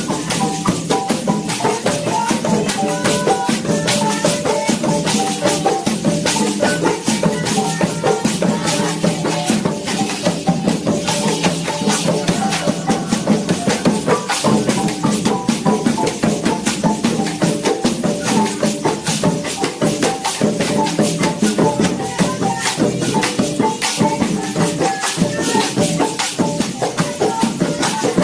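Colombian Pacific marimba music: a marimba de chonta plays quick repeated notes over drums, with a dense, fast rattling shaker rhythm that runs on without a break.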